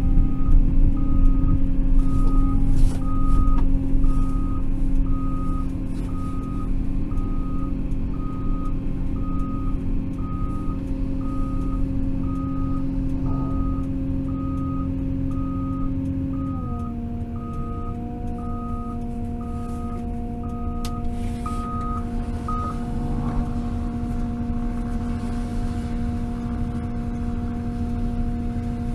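Cat 322 wheeled excavator's diesel engine running with a steady hum, its travel alarm beeping about twice a second until it stops a little past two thirds of the way through. About halfway, the engine's pitch steps slightly down.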